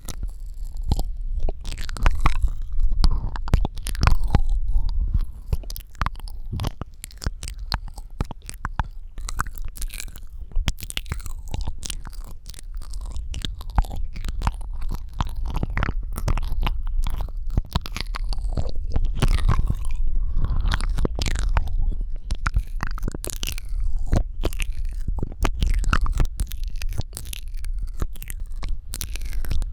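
Close-miked ASMR mouth sounds: a dense, irregular run of wet clicks, smacks and tongue pops.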